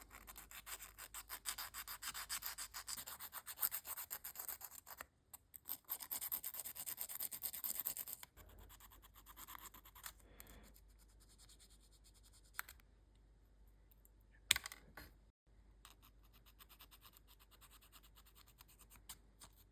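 Sandpaper rubbed quickly back and forth over a small wooden propeller blade, shaping it: steady fast scratching strokes for about eight seconds, then a few lighter strokes and a couple of sharp clicks.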